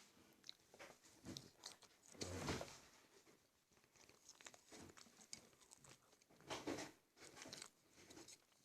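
A person chewing food close to the microphone: scattered crunches and mouth clicks, with two louder bouts about two seconds in and near seven seconds.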